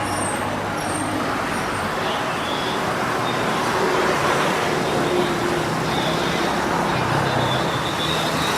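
City street traffic: a steady wash of road noise with the low hum of passing cars and buses.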